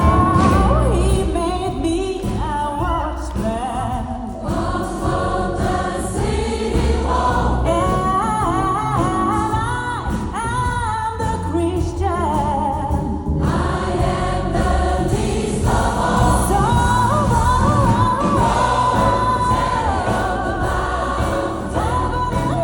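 Gospel choir singing with a band: bass and drums under sung melody lines, a solo voice standing out at times.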